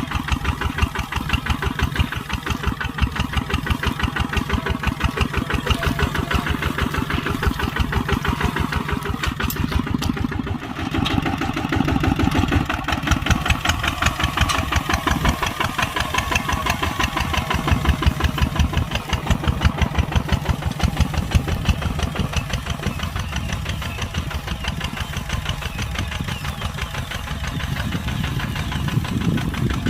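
Kubota tractor's diesel engine running steadily with a fast, even beat of firing pulses, dipping briefly about ten seconds in and then picking up again.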